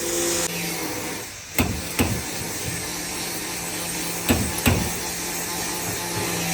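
Hammer blows on a car's body panel during accident repair: four sharp strikes in two pairs, the second pair about two and a half seconds after the first, over a steady low hum.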